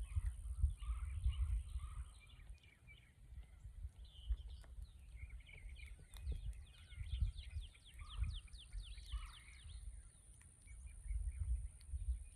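Wild birds chirping and singing, with a quick run of rapidly repeated descending notes about halfway through, over an uneven low rumble.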